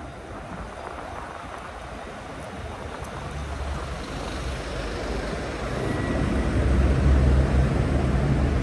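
Road and wind noise while riding a fat-tire e-bike, getting louder through the second half. A low steady hum builds underneath from about the middle.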